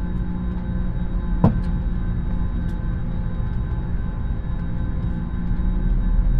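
Steady cabin drone of an Airbus A321neo during engine start: a low rumble carrying several constant tones, with one sharp knock about one and a half seconds in.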